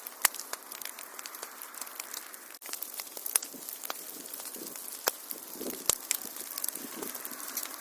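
Fireplace fire crackling: a steady hiss with frequent, irregular sharp pops and snaps, broken by a very brief dropout about two and a half seconds in.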